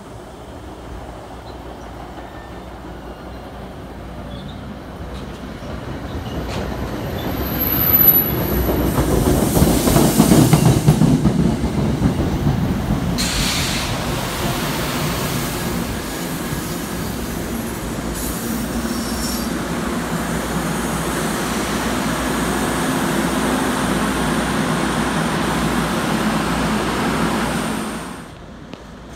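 New Jersey Transit push-pull train of Comet coaches rolling past the platform. The wheel and rail noise builds as the cab car comes in, with a brief high wheel squeal about eight seconds in. A steady rumble of coaches going by follows and cuts off suddenly near the end.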